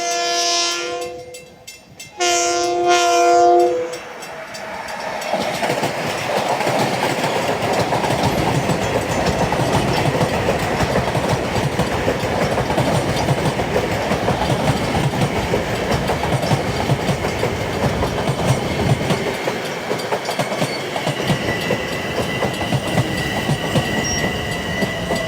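A Long Island Rail Road train sounds two long blasts of its multi-note horn, then passes close by with the steady running noise and clickety-clack of its wheels on the rails. A thin, high, steady whine joins in near the end.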